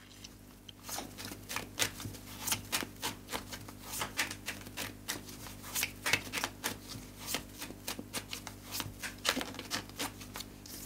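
Tarot cards being shuffled by hand: an irregular run of short card slaps and clicks, several a second.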